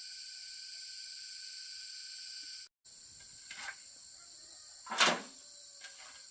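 Steady high-pitched insect chorus that cuts off abruptly, followed by quieter background with a faint knock and then one louder short thump.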